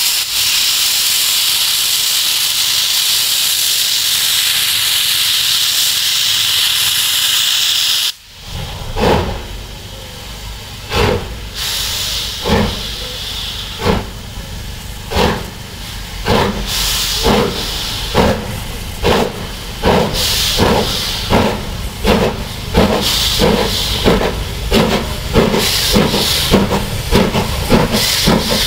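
A steam locomotive blowing off a loud, steady hiss of steam that cuts off suddenly about eight seconds in. It then starts away, its exhaust beats slow at first and quickening to about two a second by the end.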